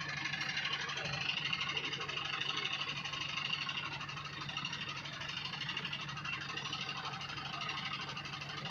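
A farm vehicle's engine running steadily, a constant low hum under a rough, noisy upper layer, with no change in speed.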